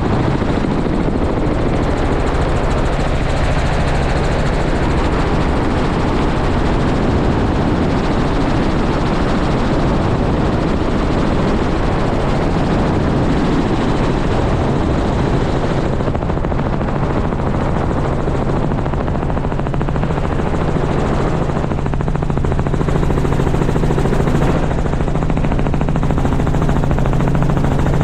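Helicopter running close by, with the steady rapid beat of its rotor. A low steady hum grows stronger about three-quarters of the way through.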